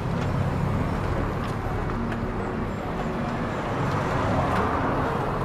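Steady rushing noise of wind and road from a bicycle on the move, swelling a little about four seconds in.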